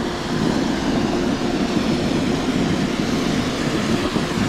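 Steady rushing rumble of riding a snowboard downhill: the board sliding over snow, mixed with wind over the microphone.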